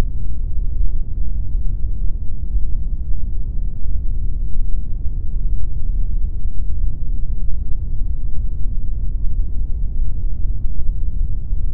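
Steady synthetic noise sold as pink noise, unbroken and unchanging, heard as a deep, dull rush with almost no treble.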